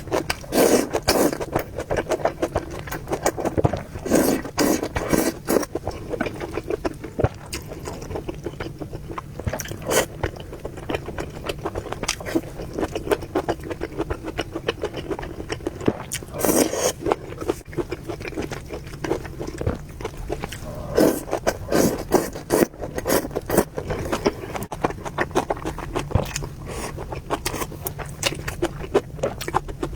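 Close-miked eating sounds of a person eating spicy noodles and meatballs: chewing with frequent irregular wet smacks and clicks. A steady low hum runs underneath.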